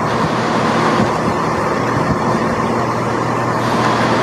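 A pair of Class 170 Turbostar diesel multiple units standing and idling, a steady engine hum with low tones.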